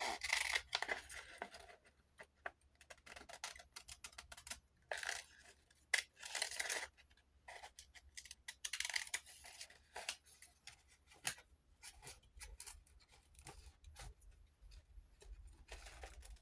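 Scissors cutting paper in a few short runs of snips, with paper rustling and small clicks between them.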